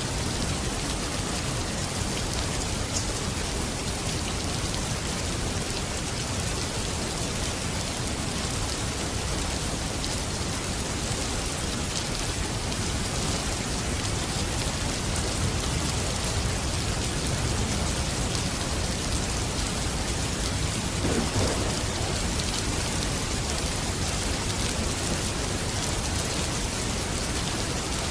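Steady rain falling in a continuous, even hiss, with low rumbles of distant thunder swelling underneath now and then.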